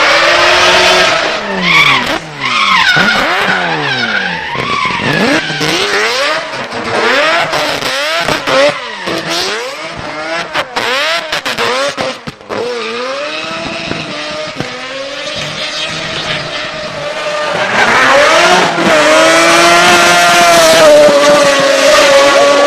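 Drift car engine revving hard, its pitch swooping up and down again and again as the throttle is blipped and the car slides, with tyre squeal over it. In the last few seconds the engine is held at high revs on a steadier note.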